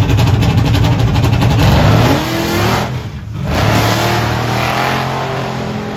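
A race vehicle's engine under hard acceleration, its pitch rising, then a brief drop in sound just after 3 s, like a gear change, before it carries on and gradually fades as it pulls away.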